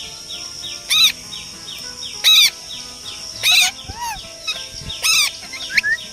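Parrot giving four loud, short squawks about a second apart, each rising and falling in pitch, with softer chirps between them. A faint, fast series of even chirps runs underneath.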